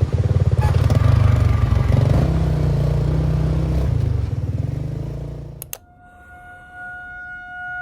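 A small engine running close by with a low, rapid pulse, fading over its last second or so. About three-quarters of the way in it cuts off abruptly, and soft music with held tones takes over.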